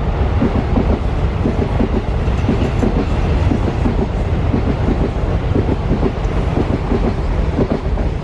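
Indian Railways ICF passenger coaches rolling past at speed, their wheels clacking rhythmically over the rail joints over a steady rumble. The sound eases a little near the end as the last coaches go by.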